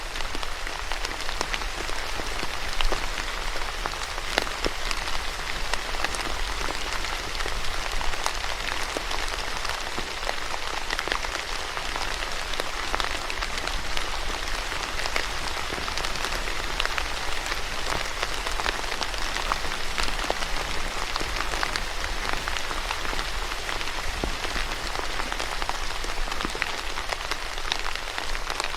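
Steady rain falling on a surface, a continuous hiss dotted with many individual drop ticks and a low steady rumble underneath.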